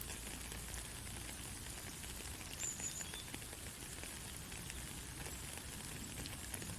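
Gentle rain falling steadily: an even hiss dotted with small drip ticks. A brief, faint high chirp sounds about two and a half seconds in.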